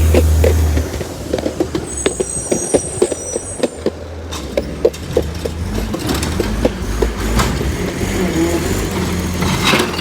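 Bridgeport Ranger recycling truck working: the engine's revving drops off about a second in. A rapid run of metallic clanks and knocks follows from the truck's body, with a brief high squeal about two seconds in.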